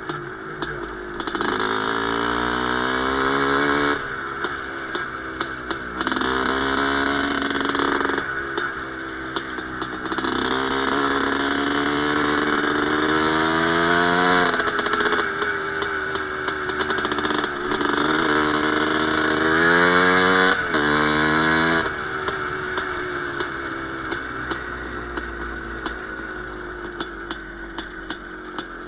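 Izh Planeta Sport single-cylinder two-stroke motorcycle engine revving up in four rising runs, each pitch climb cut off sharply before the next, then running lower and fading over the last several seconds.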